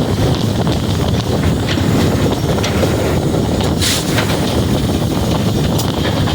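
Frisco 1630, a 2-8-0 steam locomotive, running down the line, heard from inside the cab: a steady, loud rumble of running gear and rail noise with wind on the microphone. A few sharp clicks come about four seconds in.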